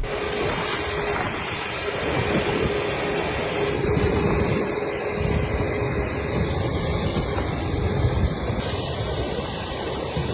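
Wind buffeting the microphone over a running vehicle, with a faint steady hum that fades out about two thirds of the way through.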